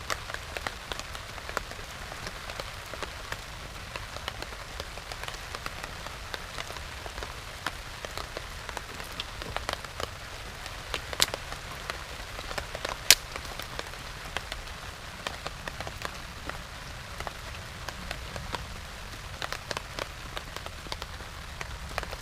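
Steady rain falling, with irregular sharp drops ticking on nearby surfaces; one tap about 13 seconds in is louder than the rest.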